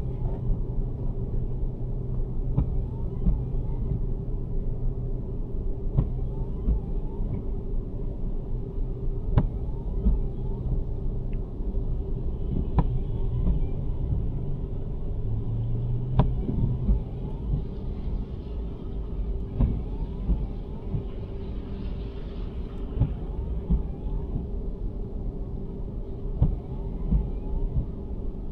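Inside the cabin of a 2023 Nissan Sentra driving on a snowy road: a steady low rumble of tyres and engine with a constant hum. A faint sharp click comes every three to four seconds.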